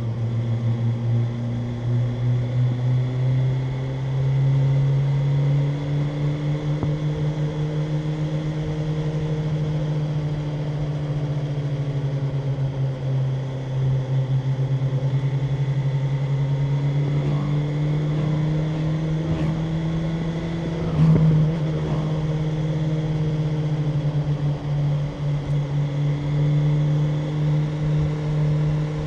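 BMW M1000R's inline-four engine running under way at fairly steady cruising revs, its pitch drifting gently up and down. A brief sharp knock comes about three-quarters of the way through.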